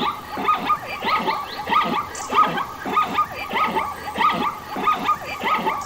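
A group of animals calling at once: many short, rising yelping calls that overlap in a dense chorus, coming in clusters about twice a second.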